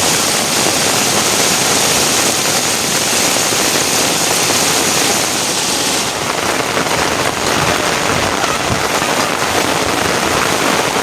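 Heavy rain falling steadily, a loud dense hiss; about six seconds in the bright high hiss eases and the rain sounds fuller and lower.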